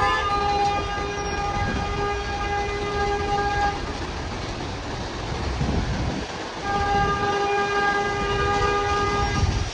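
A vehicle horn held in two long, steady blasts: the first is already sounding at the start and stops about four seconds in, and the second starts about seven seconds in and stops just before the end. Street traffic and rain run underneath as a steady hiss.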